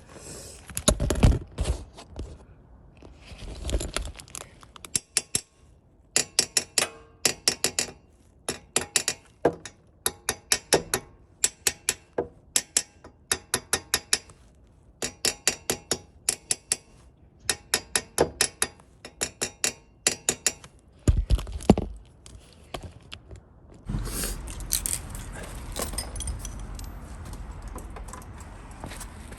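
Repeated short bursts of rapid clicking, with a few heavier knocks, then a steady running noise that starts about 24 seconds in.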